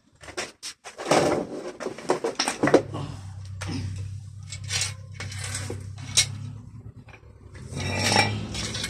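Irregular metallic clinks and knocks of tools and parts being handled while a car's power window mechanism is worked on, with a steady low hum through the middle.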